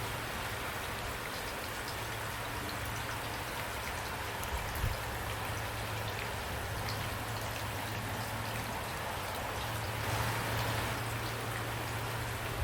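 Steady rain falling, an even hiss with individual drops ticking through it, and a low steady rumble underneath. The rain swells slightly about ten seconds in.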